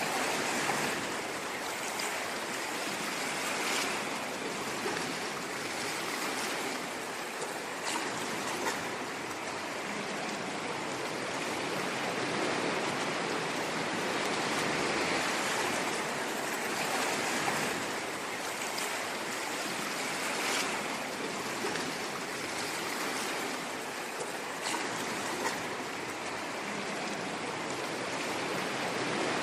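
Ocean waves washing ashore, a continuous rushing wash that swells and eases gently every few seconds, with faint crackles of foam.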